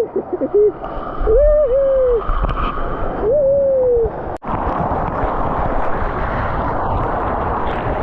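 A person's voice letting out three long held 'woo' yells, each sagging slightly in pitch. After a sudden break about four seconds in, a steady rushing noise takes over.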